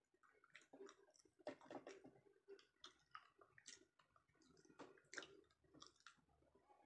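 Faint, close-up chewing of sushi, with many short wet mouth clicks and smacks.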